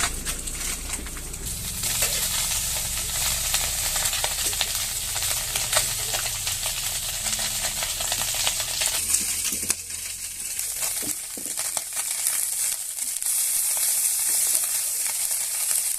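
Food frying in hot oil in a pan, a steady sizzle with small crackles and the scrape of stirring.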